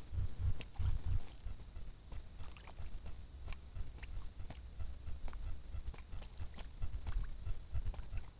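Black woodpecker pecking and chipping at wood, a string of irregularly spaced sharp taps, over a low rumble.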